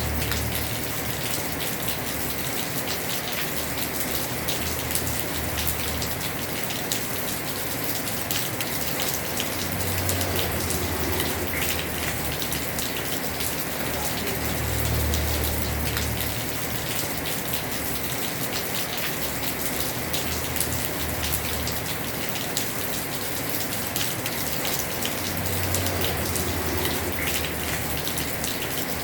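Heavy rain drumming steadily on a house roof, with a dense patter of individual drops. A low rumble swells up and fades several times underneath.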